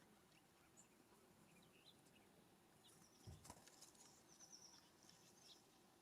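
Faint bird wingbeats with a soft thump about halfway through, among scattered high bird chirps and a quick run of about six high notes.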